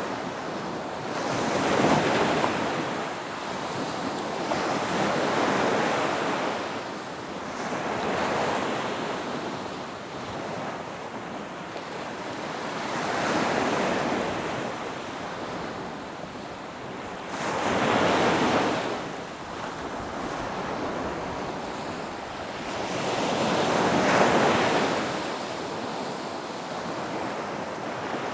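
Ocean surf breaking on a beach, the wash swelling and fading in about six slow surges.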